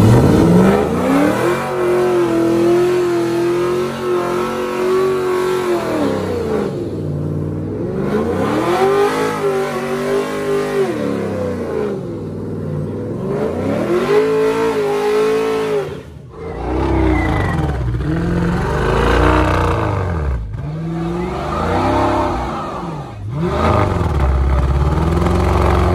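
Muscle-car engine revving hard during a tyre-smoking burnout. The revs are held high for several seconds, then fall away and climb again, three times over. In the last third they come as shorter, quicker rises and falls.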